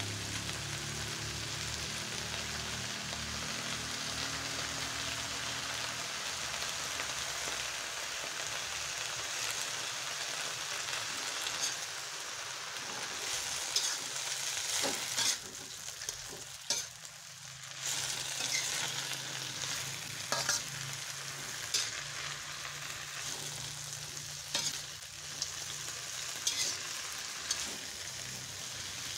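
Water spinach sizzling as it is stir-fried in a metal wok, with sharp clacks of the spatula against the pan now and then. The sizzle briefly fades about halfway through.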